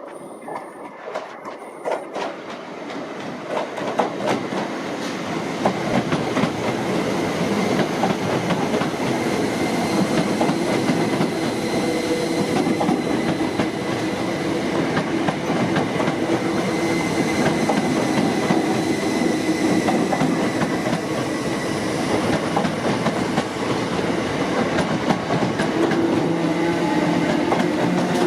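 A train running on the track, getting louder over the first six seconds and then staying loud, with a constant run of wheel clicks over the rails.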